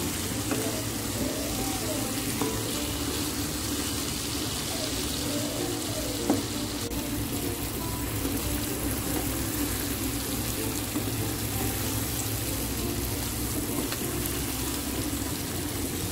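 Chicken wings and boiled eggs sizzling steadily in chilli spice paste in a frying pan over medium heat as the water in the wings cooks out, with the stirring of a wooden spatula. A single knock about six seconds in.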